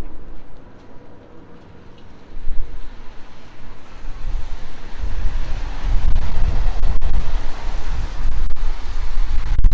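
Aircraft flying overhead: a broad, even roar that grows louder about halfway through, with a heavy low rumble of wind on the microphone.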